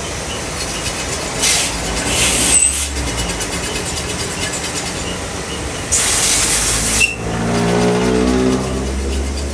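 A vehicle engine runs with a steady low drone. It is broken twice by loud bursts of hissing air, and after the second burst a clearer engine note swells for about a second.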